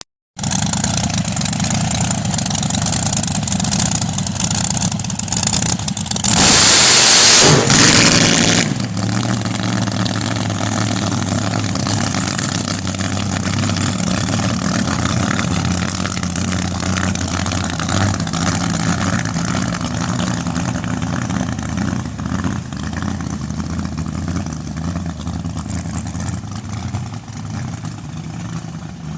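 Blown small-block Chevrolet V8 (355 cubic inches, 6-71 supercharger, burning alcohol) in a front-engine dragster. It runs at part throttle, is opened up to full throttle for about two seconds around six seconds in, then drops back to a steady lower-rpm note that slowly gets quieter.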